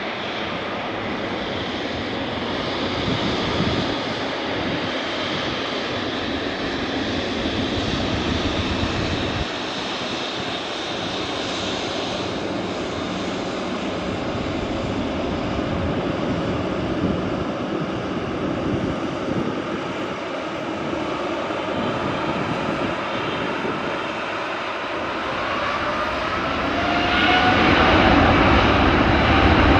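Boeing 777-300ER's GE90 turbofan engines running with a steady jet rumble and hiss, then spooling up near the end: a rising whine and the noise growing louder, as thrust is brought up for takeoff.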